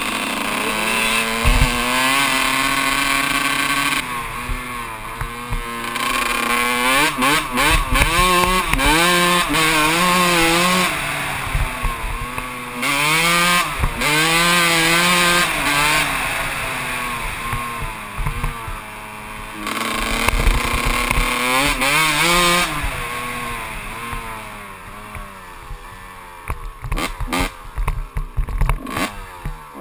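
Kawasaki KX 125 two-stroke single-cylinder dirt bike engine revving up and down over and over under throttle. About two-thirds of the way in it drops to a quieter, lower running, with a run of sharp knocks near the end.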